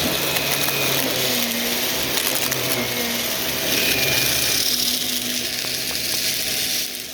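Vacuum cleaner running steadily with its brushroll clogged: a constant motor hum and airflow hiss with shifting tones.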